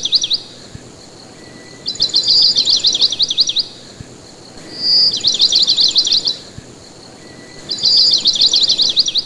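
A songbird singing the same phrase over and over: a rapid trill of high, quickly dropping notes lasting about two seconds. It comes three times, about every three seconds, with the tail of an earlier phrase at the very start.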